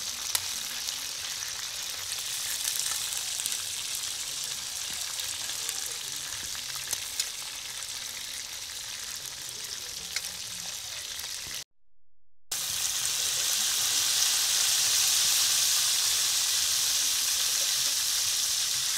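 Chicken pieces sizzling steadily as they fry in hot oil in a metal pan, with a few light clicks of a metal ladle against the pan. The sizzle drops out briefly about twelve seconds in, then comes back louder.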